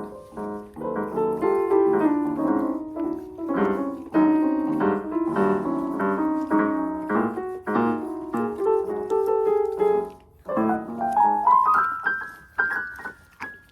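Piano music, with a short break and then a run of notes climbing in pitch near the end.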